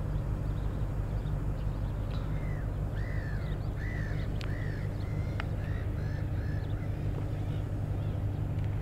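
A bird calling over a steady low rumble: a run of about eight short calls, each rising then falling in pitch, roughly two a second, starting about two seconds in and ending shortly after the middle.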